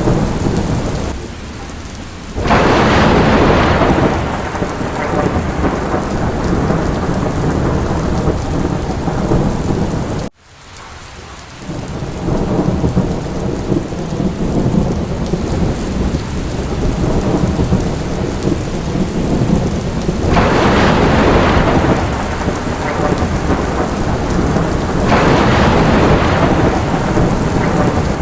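Steady heavy rain with thunder rumbling, swelling louder three times. About ten seconds in the sound cuts almost away for an instant and fades back in.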